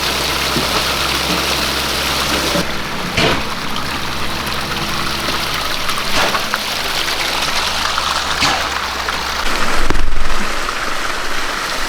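Water running and splashing steadily over a newly built pondless waterfall fed by a pump turned all the way up, briefly louder about ten seconds in.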